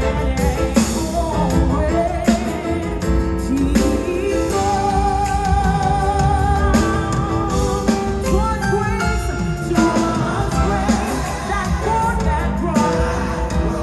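Gospel choir singing with a live band: held and gliding sung lines over band accompaniment with a steady beat.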